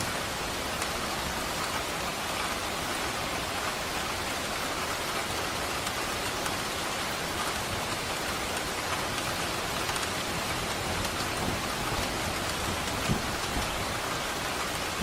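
Steady, even rain falling and pattering on surfaces, with one brief low thud near the end.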